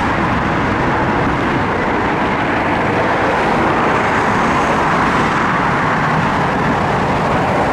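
Steady rumble and road noise of a moving vehicle, unbroken throughout.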